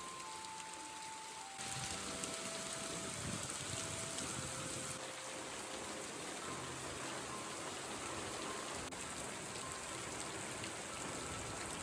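Heavy rain pouring down in a steady hiss, louder from about a second and a half in.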